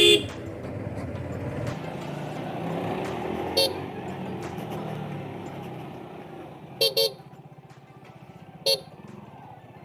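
Street traffic with vehicle horns tooting over a steady engine rumble: one short toot about three and a half seconds in, two quick toots around seven seconds, and another short one near the end.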